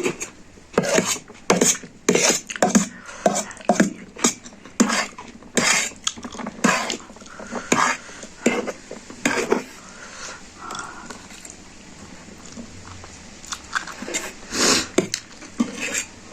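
Eating utensil clinking and scraping against a dish of instant noodles during eating, in quick repeated clicks for the first ten seconds, then sparser, with another cluster near the end.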